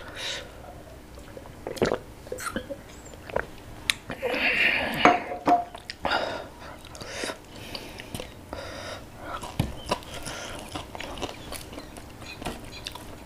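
Close-miked eating sounds of a man eating fried fish and rice with his hand: chewing, lip smacks and small clicks, with a louder stretch about four seconds in.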